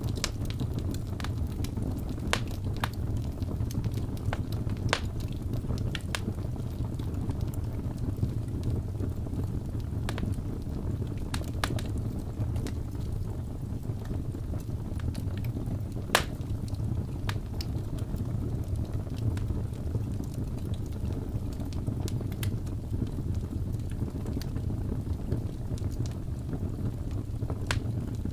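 Wood fire burning: a steady low rumble of flames with scattered crackles and pops, the sharpest pop about 16 seconds in.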